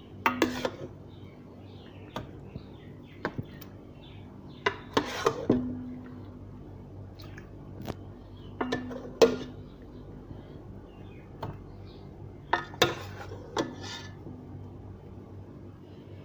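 Serving utensils knocking and scraping against a pot and serving dishes in a string of separate clinks, a few leaving a short low ring.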